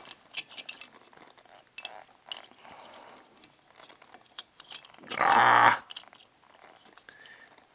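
Light clicks, taps and scraping of small plastic parts being handled and fitted onto the refrigerator compressor's terminal prongs. About five seconds in, a short, louder wordless vocal sound from the person, lasting under a second.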